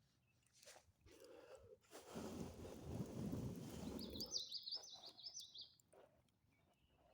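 A noisy rush lasting about two seconds, then a small songbird singing a quick run of high, repeated chirps.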